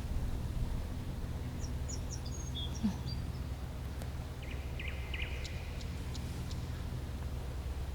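Small birds chirping in two short runs of high notes, over a steady low rumble of outdoor background noise.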